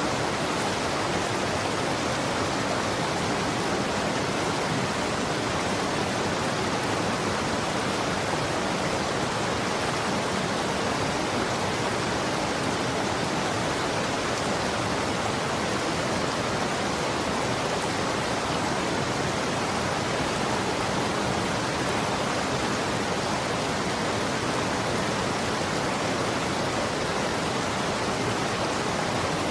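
Running water flowing steadily: a continuous, even rushing noise with no breaks or changes.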